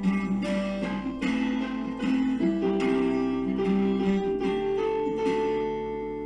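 Acoustic guitar playing chords of a song's instrumental intro; a final chord rings on from about five seconds in and fades away.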